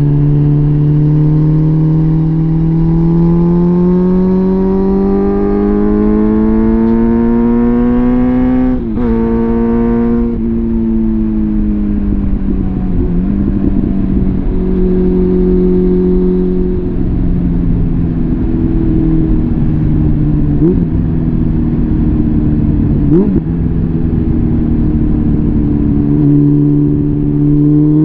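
Suzuki GSF650 Bandit's inline-four engine through a full Arrow exhaust, under way. The engine climbs steadily in pitch for about nine seconds, breaks briefly for a gear change, drops as the throttle closes, then settles at a steadier pitch before rising again near the end.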